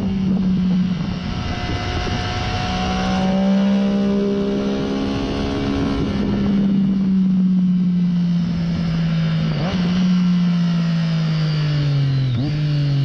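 Triumph Daytona 675's three-cylinder engine, through a Hindle slip-on muffler, running on the bike at easy cool-down pace. Its pitch drifts slowly lower, with two quick gear changes in the last few seconds.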